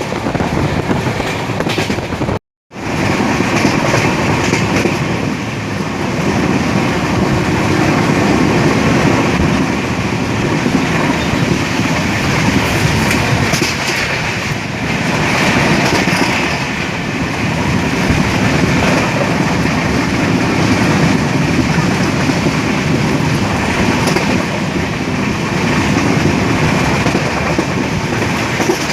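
Passenger train running along the track, heard from on board: steady rumble of wheels on rails with clickety-clack from the rail joints. The sound cuts out for a moment about two and a half seconds in.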